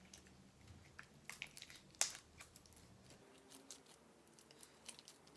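Clear slime being stretched and worked by hand, giving faint, scattered sticky clicks and squishes, the loudest about two seconds in. The slime is under-activated and still needs activator.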